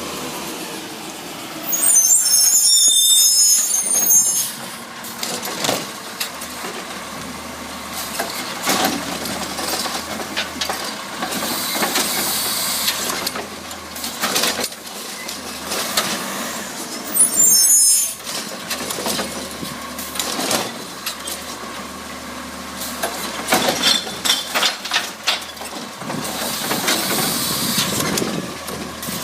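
CNG Autocar ACX garbage truck with a Heil Rapid Rail side loader running, with scattered knocks throughout. Two loud bursts of air-brake hiss come through: one of about two seconds, starting about two seconds in, and a shorter one about seventeen seconds in.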